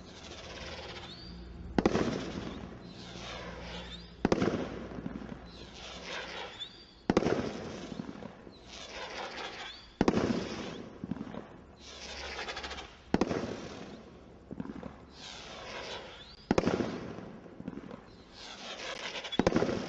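Consumer firework cake shots going off in a demo: seven loud reports about three seconds apart, each trailing off in a fading crackle and hiss.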